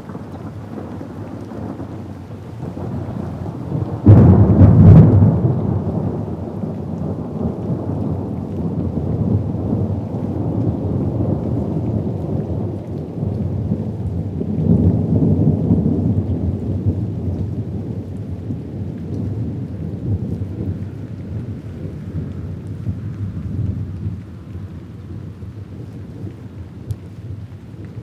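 Thunder in a thunderstorm over steady rain: a sudden loud clap about four seconds in trails off into a long low rumble, which swells again about halfway through and then slowly dies away.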